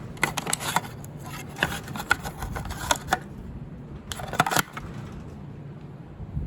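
Light metallic clinking and rattling in two spells, the second short, over a low steady hum.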